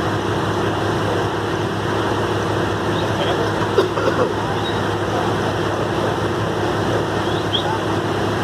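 Heavy truck diesel engine running steadily at a constant speed, with faint voices about four seconds in.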